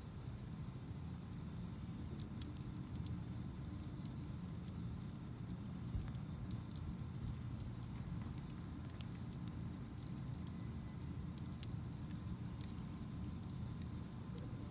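Wood campfire burning: scattered sharp crackles and pops over a steady low rumble of the flames, with one slightly louder pop about six seconds in.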